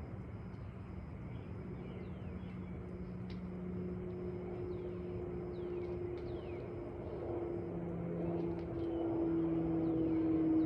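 A steady engine drone that grows gradually louder while its pitch sinks slowly, with short bird chirps over it.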